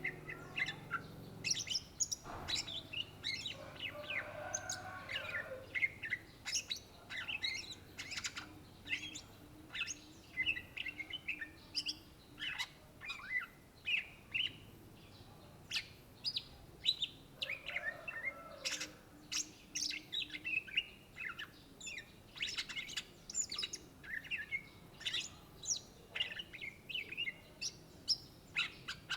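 Greater green leafbird (cucak ijo, Chloropsis sonnerati) singing a fast, unbroken run of varied chirps and whistles.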